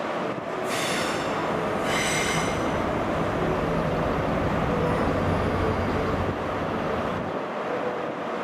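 A train moving slowly with a steady rumble, its wheels squealing high-pitched against the rails twice in the first few seconds.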